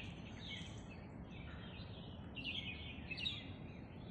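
Birds calling faintly in a string of short chirps, about one every half second, over a low, steady background rumble.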